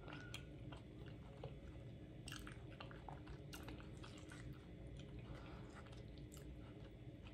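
Faint close-up chewing of soft, cheesy baked spaghetti squash, with a few small clicks scattered through.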